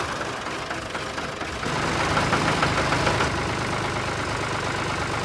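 Engine idling sound of a toy mini tractor, a steady knocking chug. It grows a little louder from about two seconds in to about three seconds in, then settles.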